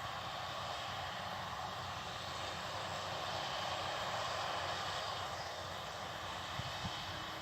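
Steady engine drone of harvest machinery working the field: a combine harvester, with a baler also at work.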